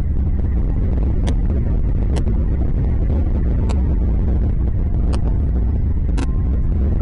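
A steady low rumble with five short, sharp high ticks spread through it, the last one a little longer.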